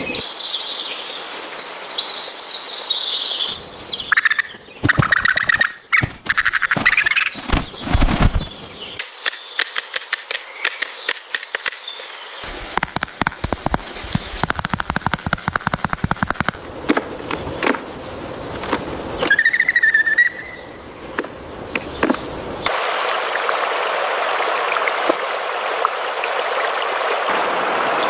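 Bird chirps and calls, with runs of rapid sharp taps at several points, and a steady rushing noise for a few seconds near the end.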